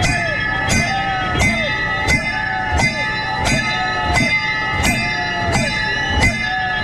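Rhythmic stroke-keeping beat of a snake-boat rowing crew: sharp metallic strikes about every 0.7 s, each followed by a short falling call, over a steady bell-like ringing.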